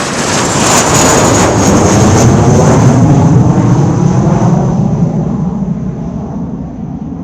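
A large vehicle passing close by: a loud rushing noise with a high whine that slowly falls in pitch, swelling over the first second or so and fading away over the last few seconds.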